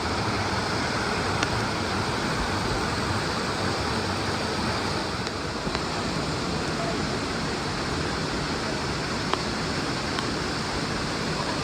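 Mountain stream rushing over rocks in a steady, even wash of water, with a few faint sharp clicks.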